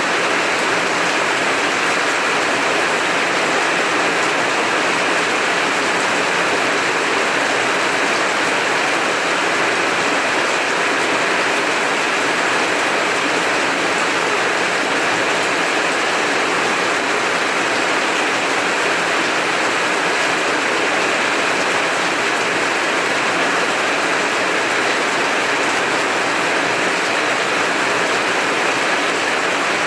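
Heavy rain falling steadily, an even, unbroken rush of noise.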